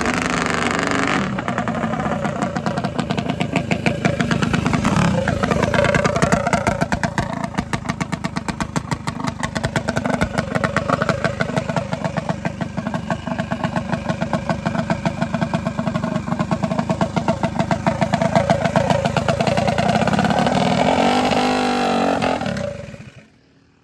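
A racing minibike's small single-cylinder engine running hard, its revs rising and falling, then dying away near the end.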